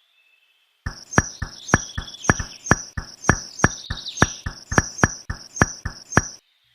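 Insect chirping in a steady rhythm, about three to four short chirps a second, starting about a second in.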